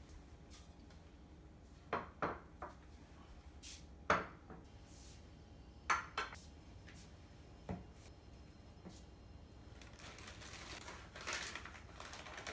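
Dishes and utensils clinking and knocking now and then during kitchen food preparation, with a rustle near the end.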